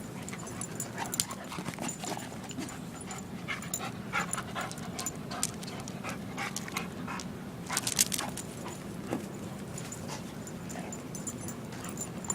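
A dog panting, with scattered short clicks and a louder cluster of clicks about eight seconds in.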